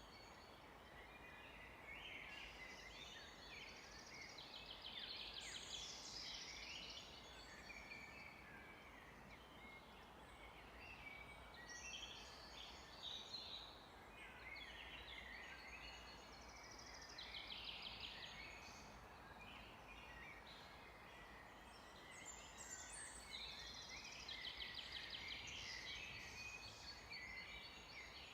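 Several forest songbirds singing faintly at once, with chirped, warbled and rapid trilled phrases overlapping throughout, over a steady low hum.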